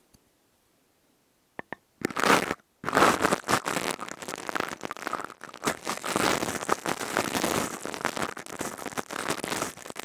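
Close-miked ASMR crunching and crackling from a crystal tube being handled, dense and continuous after a couple of soft clicks.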